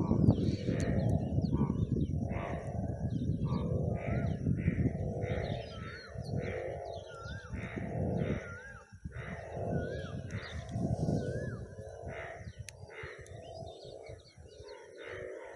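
Birds calling: harsh calls repeated about twice a second, with a few short rising-and-falling whistled notes about halfway through. A low rumble on the microphone sits under the first several seconds and then fades.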